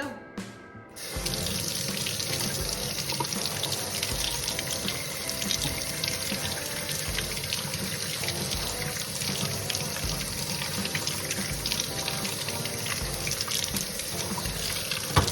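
Kitchen sink tap running, the water splashing as a potato is washed under it; the hiss starts about a second in and stops near the end with a sharp knock. Background music with a steady beat plays underneath.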